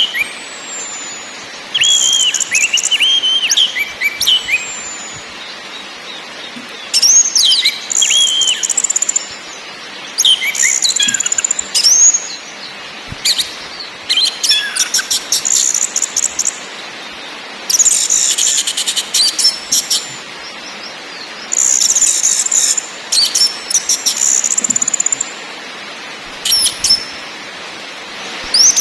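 Orange-headed thrush singing in repeated bursts every couple of seconds: fast, high rattling phrases mixed with short sliding whistles.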